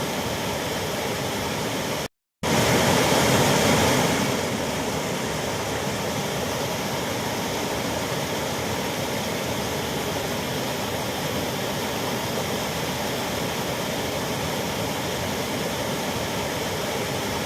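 Waterfall rushing, a steady wash of falling water. It cuts out for a moment about two seconds in, comes back a little louder for a couple of seconds, then settles back to the same even level.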